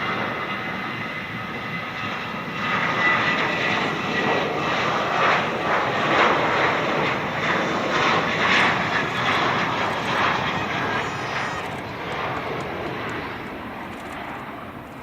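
Jet engines of a Boeing 737-700 (CFM56-7B turbofans) running loud, with a steady high whine over rushing engine noise that swells to its loudest through the middle and then fades as the aircraft moves by.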